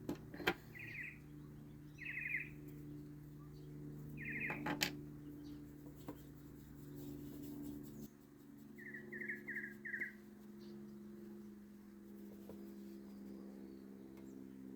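Small bird chirping: three short trilled notes a couple of seconds apart, then a quick run of four about nine seconds in. Under it there is a faint steady hum and a couple of sharp light clicks.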